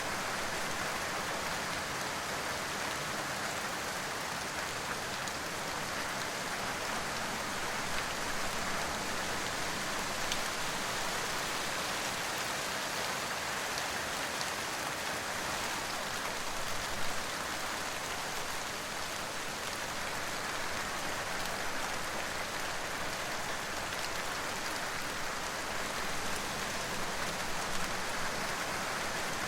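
Steady rain falling: an even, unbroken hiss with scattered small drop ticks.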